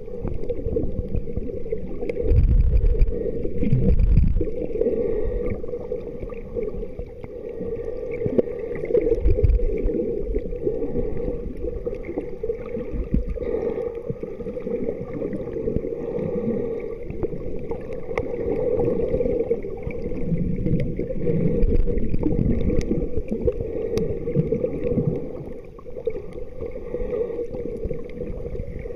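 Water sloshing and gurgling around a moving kayak, over a steady low hum, with a few heavier low surges.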